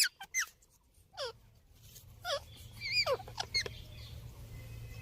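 Ringneck parrot giving a handful of short squeaky calls, each sliding down in pitch.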